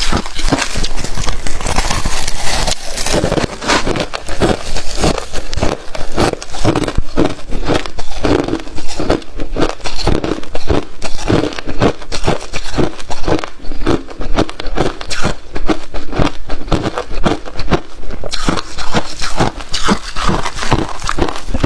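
Freezer frost being bitten and chewed: loud, rapid crunching, many crunches a second.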